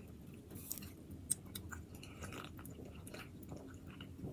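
Faint close-up chewing of a mouthful of food, with small scattered mouth clicks and one sharper click about a second and a half in.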